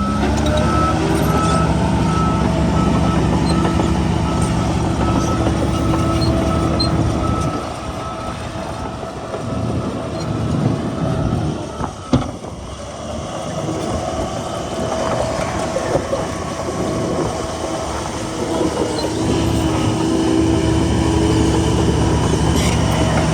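Heavy diesel earthmoving machinery running hard. It eases off for several seconds in the middle and builds up again near the end, with one sharp knock about halfway through.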